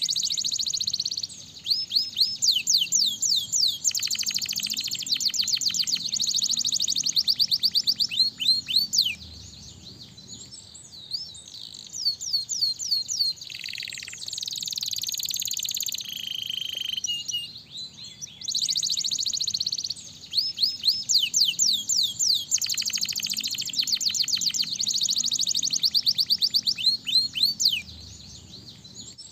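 Domestic canary singing: long phrases of rapid, high-pitched trills and rolls, broken by short pauses. The same song sequence comes round again about two-thirds of the way through, as in a repeated recording.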